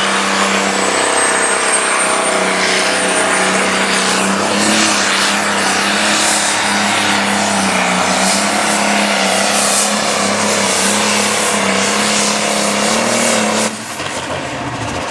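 Turbocharged diesel pulling tractor running at full throttle under load as it pulls the sled, with a high whistle rising over the first few seconds. The engine drops off sharply near the end.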